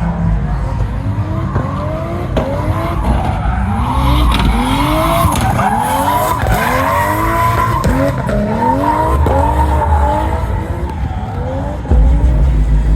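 Modified car engine revved hard again and again, its pitch rising and falling with each rev, while the tyres squeal under wheelspin, as in drifting.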